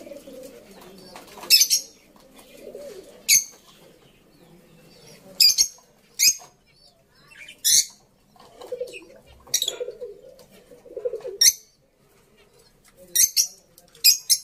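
Pigeons cooing in low, rolling calls, with about nine short, sharp, high-pitched bursts scattered among them.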